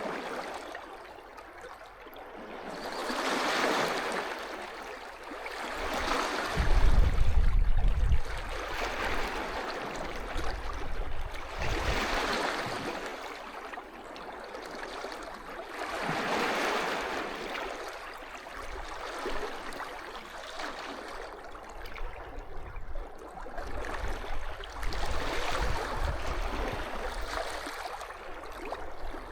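Small sea waves washing onto the shore, the hiss of each one swelling and fading every four to five seconds. Low gusty rumbling comes in about seven seconds in and again near the end.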